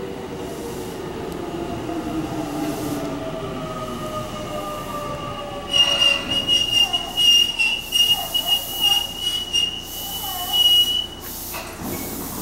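Tobu commuter train pulling into the platform and braking to a stop. Its motor whine falls in pitch as it slows, and about halfway through a high, wavering squeal sets in. The squeal stops abruptly shortly before the end as the train halts.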